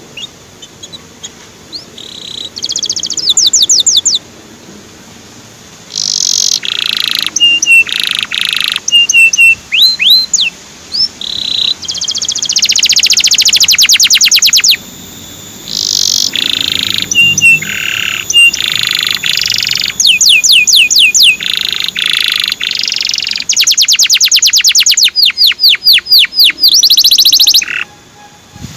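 Male canary singing loudly: a string of song phrases, each a fast run of one repeated note or a trill, with short whistled notes between them and brief pauses.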